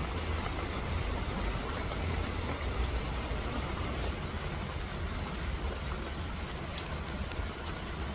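Steady rain falling, an even hiss over a low rumble, with a few single drops ticking sharply in the second half.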